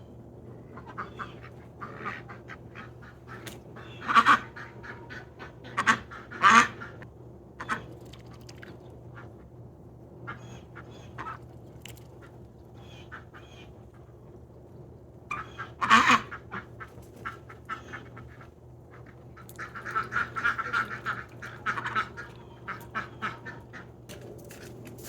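Domestic ducks quacking in short, scattered calls, loudest about four, six and sixteen seconds in, with a busier run of quacks about twenty seconds in.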